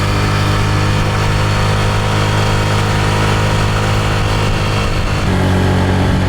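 Small rental moped engine running steadily while being ridden, with a rush of noise over it. The engine note shifts slightly and gets a little louder about five seconds in.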